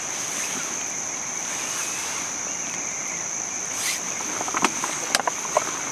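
Steady high-pitched insect trill over a soft hiss of rain. From about four and a half seconds in, a run of irregular sharp clicks and pops joins it.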